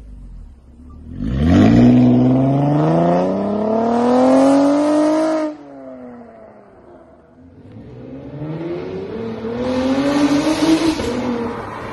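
2018 Chevrolet Camaro RS's 3.6-litre V6 through a swapped-in SS quad-tip exhaust, revved twice. The first rev climbs quickly about a second in, keeps rising and cuts off sharply a little past halfway. The second climbs more slowly, peaks near the end and starts to fall.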